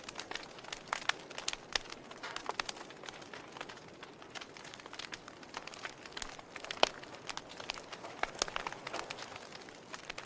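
Fire crackling, with irregular sharp pops over a soft steady hiss; one much louder pop about seven seconds in.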